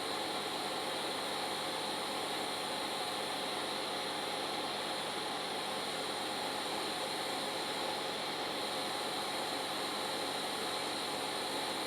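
Welding arc running steadily on a steel two-stroke expansion pipe, an even hiss that holds without a break.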